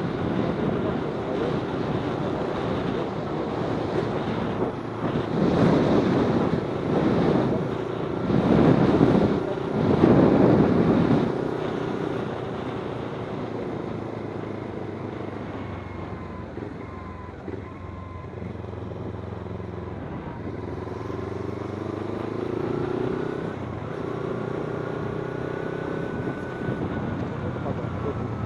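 Kawasaki Z250's parallel-twin engine running under way, with wind rushing over the microphone. There is a louder surge of wind and engine from about 5 to 11 seconds in, and later the engine note rises and falls with the throttle.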